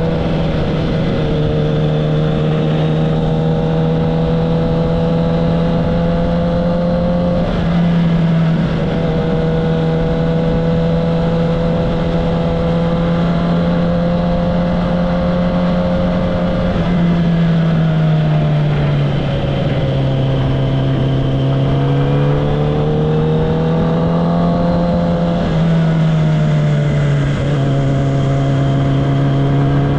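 Kawasaki ZX-10R's inline-four engine and exhaust running at steady mid revs under way. Its pitch holds for long stretches, drops in steps several times in the second half and rises once in between, as throttle and gears change.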